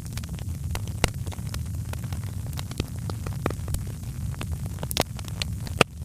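Wood fire in a fireplace crackling, with irregular sharp pops over a steady low rumble of the flames; one louder pop near the end.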